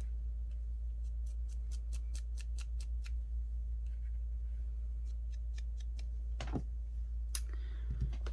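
A quick run of small, sharp clicks and snips from hand craft work on paper, about six a second for two seconds, then a couple of louder taps near the end, over a steady low hum.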